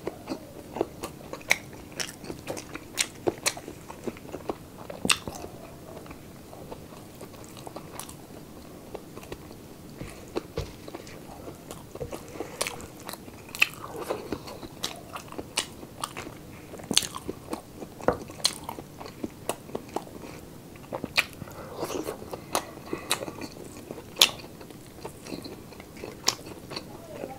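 Close-miked chewing and crunching of a mouthful of pork sisig and braised beef: many sharp, irregular crunches and mouth clicks, some louder than others.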